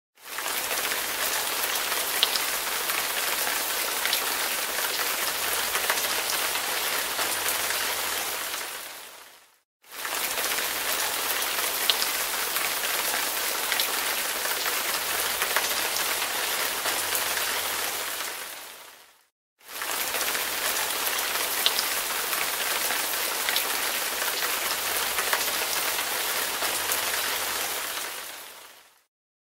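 Rain falling steadily, an even hiss with scattered drop ticks. It fades out and back in twice, about every ten seconds.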